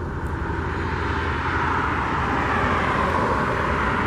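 Distant engine noise: a steady low rumble with a rushing hiss that slowly swells.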